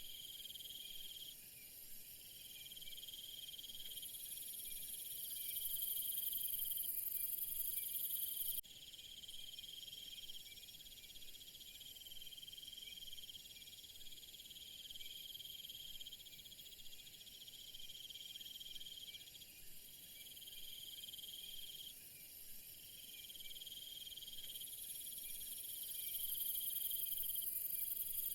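Crickets trilling in a steady, dense chorus. A louder, very high layer of trilling stops abruptly about nine seconds in and comes back near the end.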